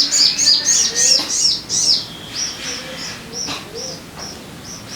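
Sogon bird singing: a fast run of high, down-slurred chirps for about two seconds, then slower, spaced single high notes about twice a second, with faint lower whistled notes beneath.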